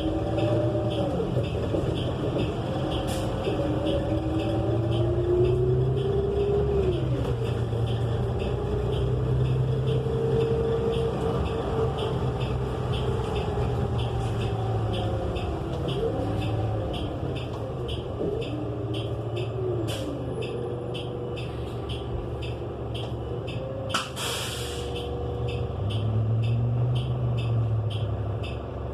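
Cabin sound of a 2018 New Flyer XN35 bus under way, its Cummins Westport L9N natural-gas engine and Allison transmission running loud, with a whine that rises and falls several times as the bus speeds up and slows. A short hiss of air comes about four-fifths of the way through.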